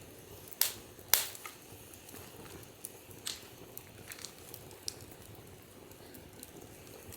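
Wood campfire crackling, with sharp irregular pops over a low steady hiss; the two loudest pops come about half a second and a second in, and a few fainter ones follow.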